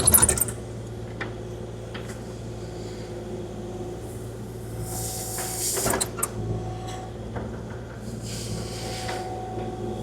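Kubota KX040-4 mini excavator's diesel engine running steadily. Two short hissing swells come about five and eight and a half seconds in, with a few light knocks.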